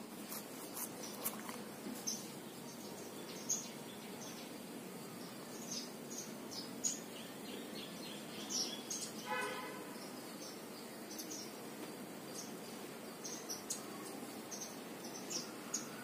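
Faint birds chirping in the background over a steady low hiss: short high chirps scattered throughout, and one longer, lower call about nine seconds in.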